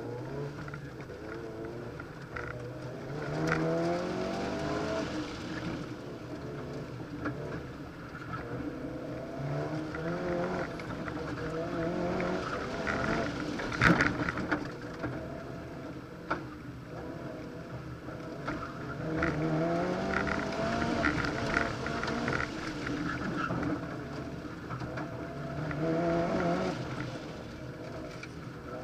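2005 Mitsubishi Lancer Evolution RS's turbocharged four-cylinder engine heard from inside the cabin, revving up and dropping back again and again as the car is driven hard through an autocross course. A single sharp knock about halfway through is the loudest moment.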